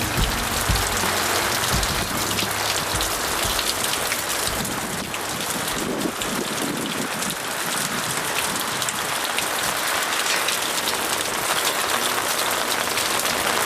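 Heavy rain falling steadily in a downpour, a dense even hiss of drops on surfaces.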